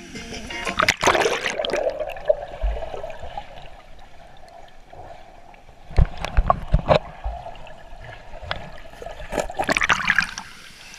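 Water trickling and splashing, as at a small waterfall or stream, with several sharp knocks and bumps about a second in, around six to seven seconds in, and near the end.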